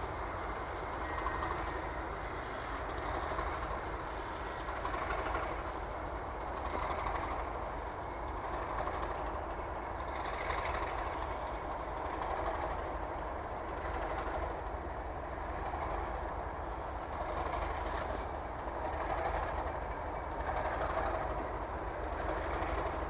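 Pair of English Electric-engined Class 37 diesel locomotives working under power as they pull a train away, a continuous heavy rumble that swells and eases about every two seconds.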